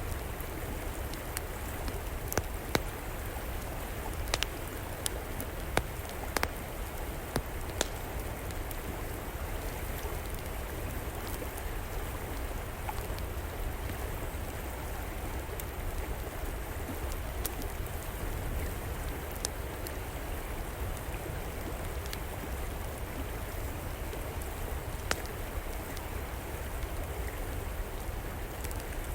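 River water flowing steadily, with an outdoor wood fire crackling over it in scattered sharp pops that come more often in the first several seconds.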